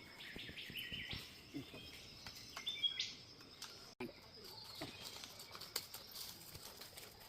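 Rainforest birds calling: a phrase of stepped notes ending in a quick upward sweep, heard about a second in and again near three seconds.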